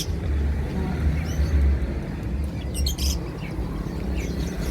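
Caged songbirds singing in short, high, rapid bursts, about three seconds in, over a steady low rumble.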